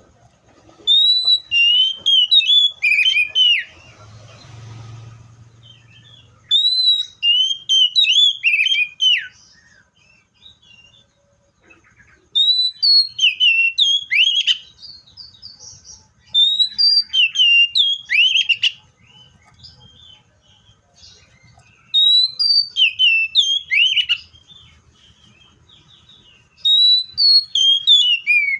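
Seychelles magpie-robin singing: six phrases of loud, clear, quickly sliding whistled notes, each phrase two to three seconds long, with pauses of a few seconds between them.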